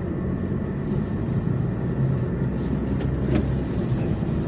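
Steady engine and road noise inside a Ford Focus's cabin while it is being driven.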